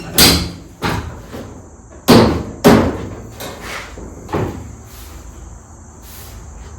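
About six sharp knocks on the car's sheet-metal body while a replacement quarter panel is being fitted, the loudest two about two seconds in; the knocks stop after about four and a half seconds.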